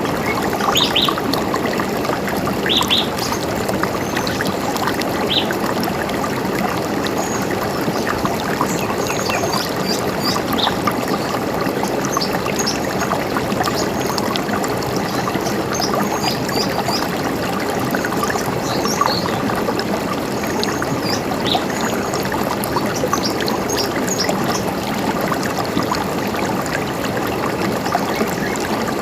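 A river running steadily, with small birds giving short high chirps over it, a few of them louder early on and many more in the middle stretch.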